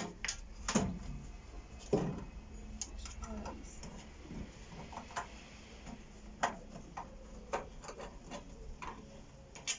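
Screwdriver working screws out of a microwave's metal casing: irregular small clicks and taps of metal on metal, with a couple of duller knocks in the first two seconds.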